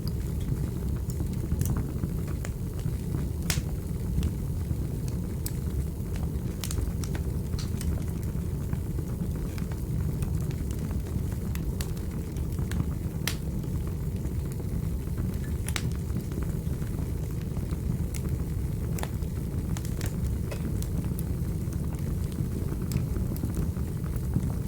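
Fire burning in a fireplace: a steady low rumble of flames with sharp crackles and pops at irregular intervals.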